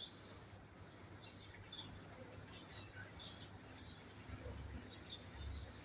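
Several birds chirping and calling in short, scattered notes over faint outdoor background noise.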